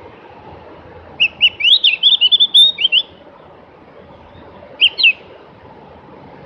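Opior jawa (Javan grey-throated white-eye, also called cucak gentong) singing: a quick run of short, sharp high chirps lasting under two seconds, then a couple more notes a few seconds later, over a steady low background hiss.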